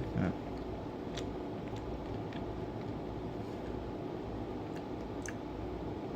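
Steady low room hum, with a few faint, sparse mouth clicks from someone quietly chewing a caramel M&M.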